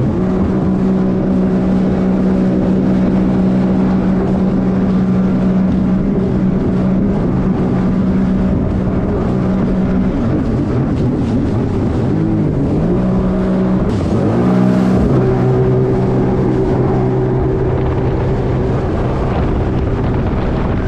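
Sea-Doo jet ski engine running at a steady pitch under way, with two brief dips in pitch as the throttle eases off about twelve and fourteen seconds in, and wind on the microphone.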